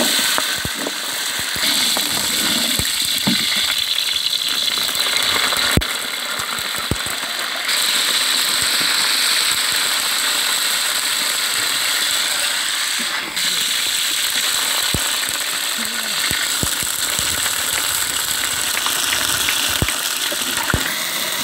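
Shallots, dried red chillies and curry leaves sizzling steadily in hot oil in a large aluminium pot, with a metal spatula clicking and scraping against the pot as they are stirred. The sizzle grows louder about 2 s and 8 s in.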